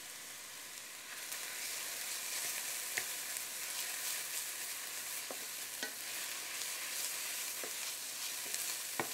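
Caramelized onions and minced garlic sizzling in a stainless steel skillet as a wooden spoon stirs them. The sizzle is steady and picks up about a second in, with a few light clicks of the spoon against the pan.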